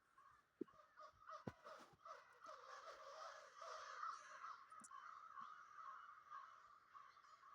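Faint chorus of many birds calling at once: a continuous, overlapping chatter, with a few soft knocks in the first two seconds.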